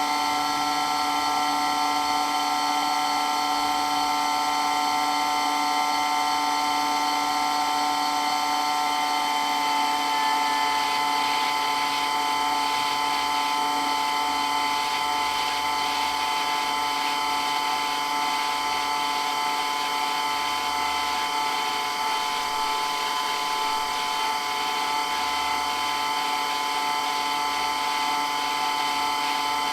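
Water pump running steadily, a constant motor whine made of several held tones over a hiss. One of the higher tones drops out about ten seconds in.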